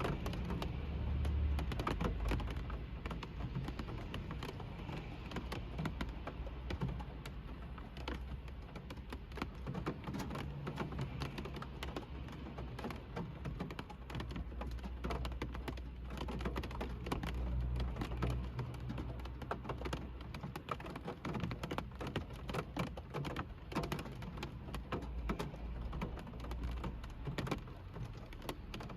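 Rain pattering on a car's roof and windshield, heard from inside the car: a dense, irregular stream of small drop clicks over a steady low rumble.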